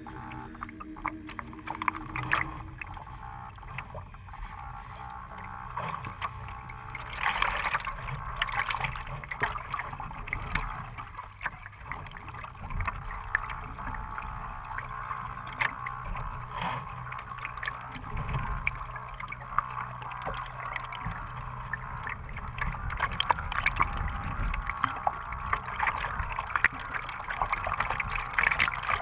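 Strong wind on open water: small waves splashing and lapping with an irregular crackle of spray, over a low rumble of wind.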